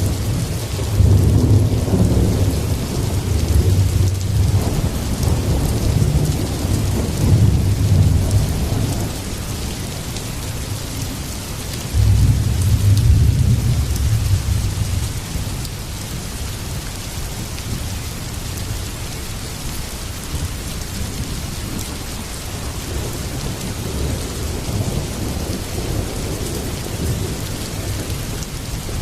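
Heavy rain falling steadily with thunder rolling through it: long low rumbles over the first several seconds, then a new peal that starts abruptly about twelve seconds in and dies away a few seconds later, leaving the rain alone.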